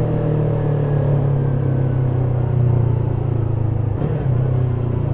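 Stock Yamaha YZF-R3's parallel-twin engine running steadily under the rider, its pitch slowly sinking, with a brief drop in the sound about four seconds in.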